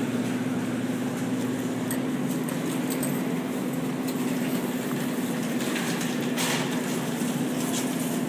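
Steady mechanical hum with a constant low drone, and a few faint clinks about six seconds in.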